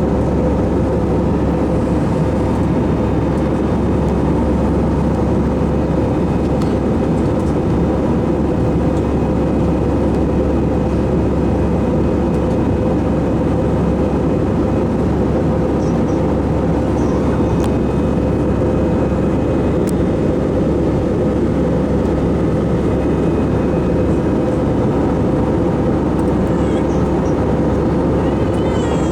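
Jet airliner cabin noise during the climb after takeoff: a steady, loud rush of engines and airflow with a constant drone.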